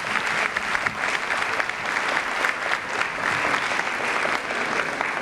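Audience applauding with steady clapping, as the presenters are welcomed to the stage.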